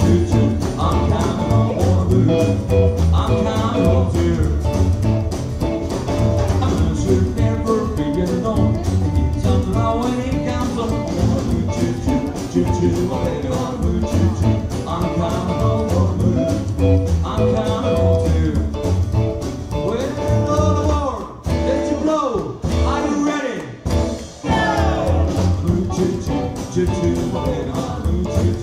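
A live band playing a song with a singer, in a blues and rock and roll vein. The backing thins out briefly twice, about three quarters of the way through, under sliding notes.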